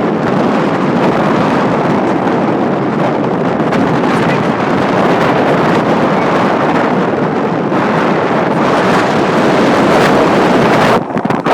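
Loud, steady rush of wind buffeting the microphone aboard a moving ferry, over the boat's running noise; it dips briefly near the end.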